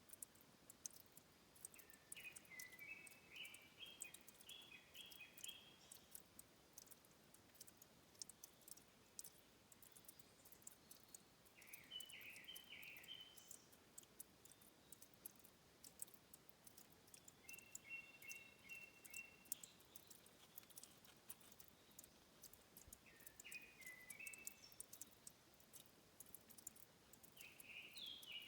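Faint forest birdsong: a songbird gives short warbling phrases every few seconds, five in all, over a steady scatter of small sharp clicks and ticks.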